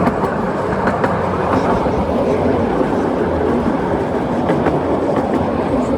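Miniature railway train running steadily, with its wheels rumbling and clattering over the track, heard from on board.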